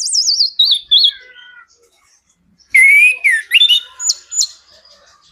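Chestnut-capped thrush (anis kembang) singing: a rapid run of high, wavering whistled notes falling in pitch, a pause of about a second, then a second quick phrase of gliding whistles and sharp notes.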